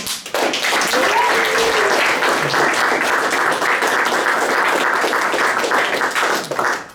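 Audience applauding, a steady dense clapping that stops abruptly near the end, with a faint shout or cheer in the first couple of seconds.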